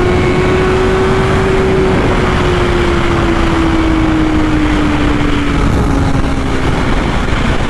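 BMW S1000RR's inline-four engine at high revs during a high-speed run, over a loud rush of wind noise. Its note climbs a little, then falls slowly as the rider eases off.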